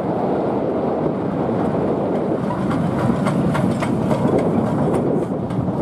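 A steam-hauled passenger train passing close by, its wheels rumbling and clicking over the rail joints, with a run of sharp wheel clicks a few seconds in. Wind noise on the microphone mixes with the train.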